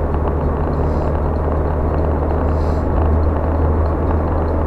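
Car driving at steady speed, heard inside the cabin: a constant low engine and road drone.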